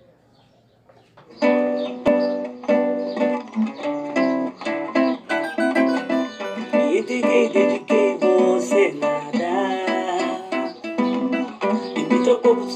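Acoustic plucked-string instrument strumming chords in a pagode rhythm, starting about a second and a half in after near quiet.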